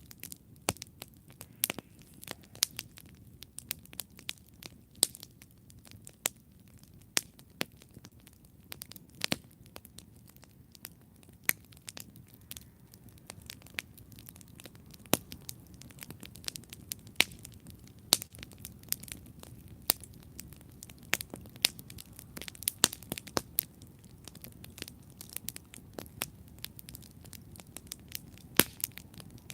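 Wood campfire burning, crackling and popping irregularly with many sharp snaps over a soft low rumble of the flames.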